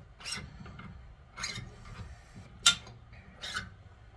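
Metal tools and parts knocking and clinking during hands-on work on a steel suspension part: a handful of short, sharp knocks about a second apart, the sharpest a little past halfway.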